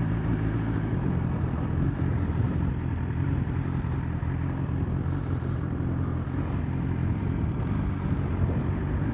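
2021 BMW S1000XR's inline-four engine running at a steady note while riding, with road and wind noise.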